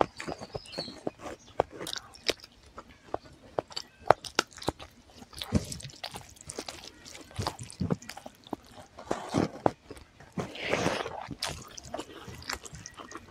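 Close-miked eating sounds of egg curry and rice eaten by hand: chewing with many short wet smacks and clicks of the mouth, and a longer squishy rustle a little before the end as fingers mix the rice.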